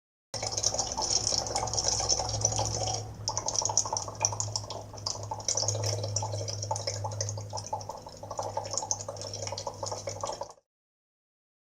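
Trickling, dripping water over a low steady hum, made up of many small clicks. It starts and cuts off abruptly, and its texture changes about three seconds in.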